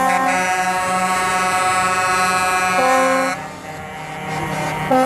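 Truck air horns blowing: a long multi-note blast that shifts pitch partway and cuts off a little after halfway, then short blasts again near the end.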